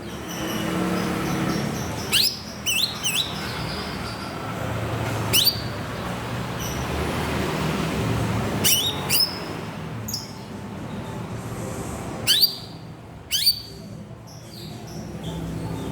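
Greater green leafbird (cucak ijo) giving short, sharp downward-sweeping calls, some single and some in quick runs of two or three, over a steady low background rumble.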